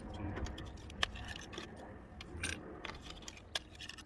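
Irregular light metallic clicks and clinks of hand tools, a spark plug socket and extension knocking against metal while new spark plugs are fitted into the engine.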